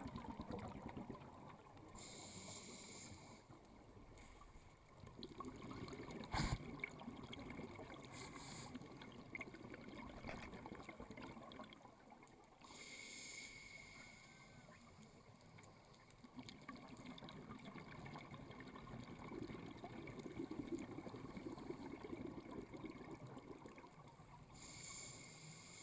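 Scuba diver breathing underwater through a regulator: three short hissing inhalations about eleven seconds apart, each followed by several seconds of low bubbling as the exhaled air escapes. One sharp click about six seconds in.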